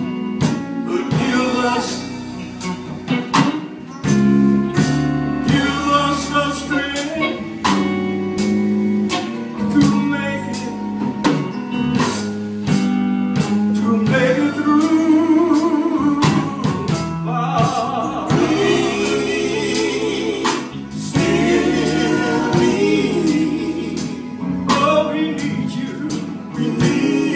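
Gospel music: voices singing held, wavering notes over a band with a steady drum beat.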